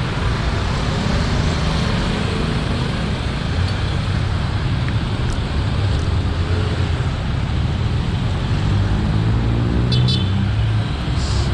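Road traffic noise, with a motor vehicle's engine rising in pitch close by near the end.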